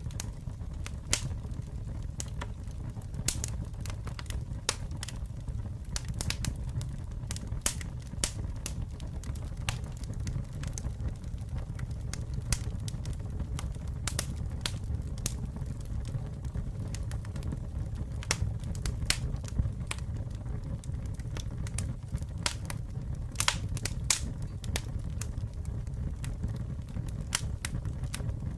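Campfire burning with a low steady rumble and frequent irregular sharp crackles and pops of the burning wood.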